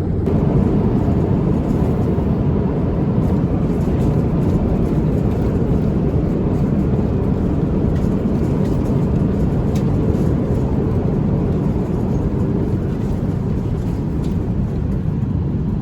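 Steady cabin noise of an Airbus A350-900 in flight: an even, low rushing sound with a few faint ticks.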